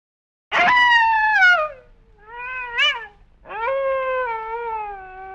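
Wolf howling, three howls in a row: a long one that starts high and slides down, a short one that climbs to a peak, then a long one that slowly falls and is still going at the end.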